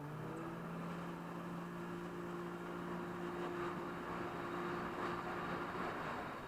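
Jet ski engine running at a steady speed, its drone holding one pitch over a rushing noise of water and wind; the engine note fades near the end.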